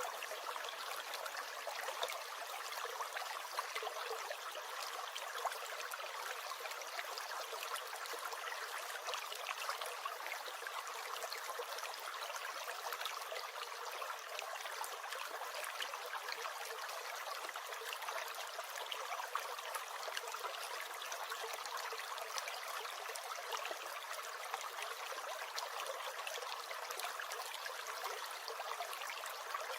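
A small stream gurgling and trickling steadily: an even, bright water noise full of tiny splashes, with no deep rumble.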